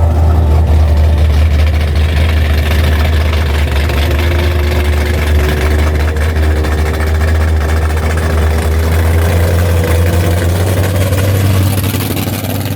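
Car engine idling with a deep, steady rumble.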